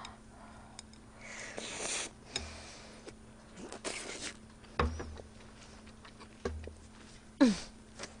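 Close-miked eating sounds: chewing and mouth noises from a bite of a wrap of pickled radish, chives and smoked pork belly, which is chewy. Short soft swishes and clicks, with two brief falling squeaky sounds about five seconds and seven and a half seconds in, the second the loudest.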